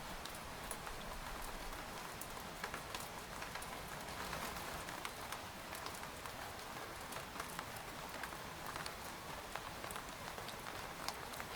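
Steady light rain pattering on a tent's fabric, with many separate drops ticking sharply against it.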